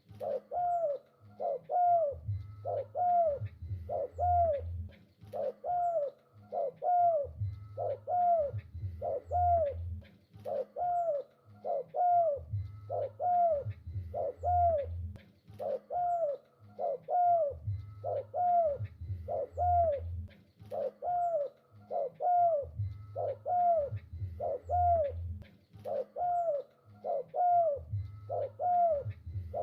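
Spotted dove (tekukur) cooing without pause: an arched note repeats about twice a second, with deeper phrases every few seconds.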